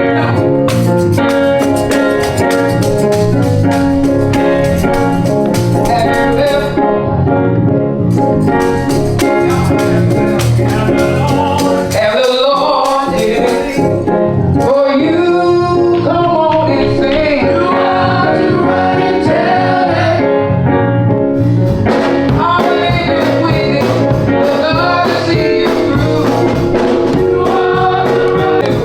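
Church choir rehearsing a gospel song, with singing over a band backing that has a steady drum beat.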